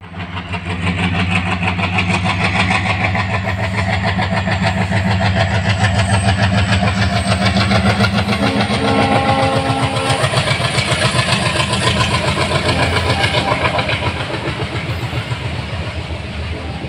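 Diesel locomotive passing at speed with a steady engine drone, followed by its passenger coaches rolling by, wheels clattering rhythmically over the rail joints.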